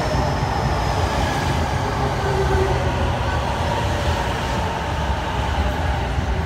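JR East E233 series electric train pulling into the platform, its cars rolling past with a steady, loud rumble of wheels on rail. Faint high whines ride over it, one sliding slightly down in pitch and fading in the first second.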